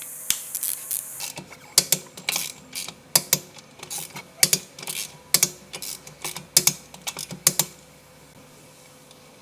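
A run of sharp mechanical clicks and clacks at uneven intervals, with ratchet-like sounds among them, as from hand tools being worked. They stop about eight seconds in.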